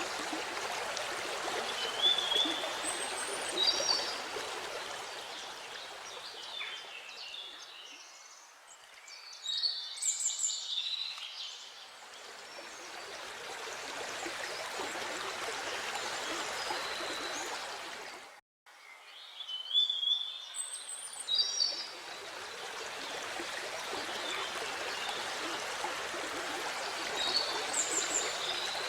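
Steady rush of running water, with birds chirping now and then. The water sound dips for a few seconds about a third of the way in. It cuts out completely for a split second about two-thirds of the way through, then returns.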